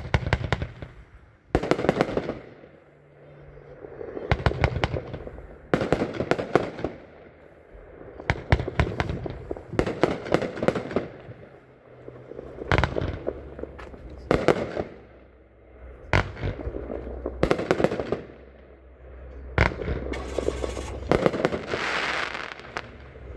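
A 24-shot consumer firework cake (Dragon Blaze) firing. Each shot's break comes as a cluster of sharp reports, repeating every second or two.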